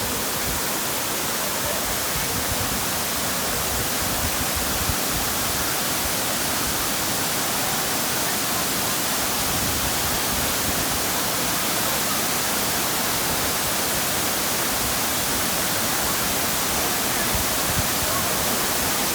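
Waterfall pouring into its pool, a steady, unbroken rush of falling water.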